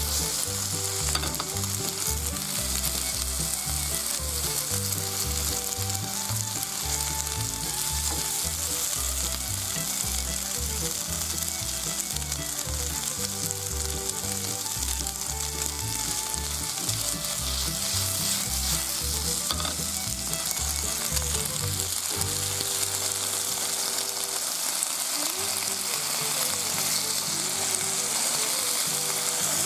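Pork belly and chunks of eggplant sizzling steadily in oil in a frying pan as they stir-fry.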